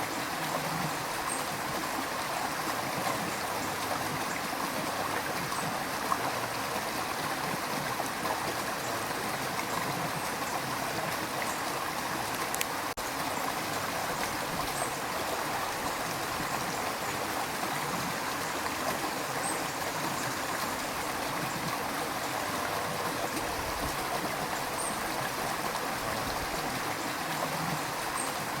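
River water rushing steadily, a continuous even flow with no breaks.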